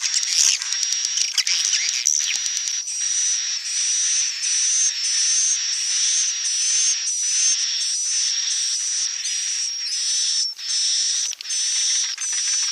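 Swiftlets twittering: a dense, continuous high-pitched chatter of calls, repeating in short phrases about twice a second, as in a lure recording played to draw swiftlets to nest.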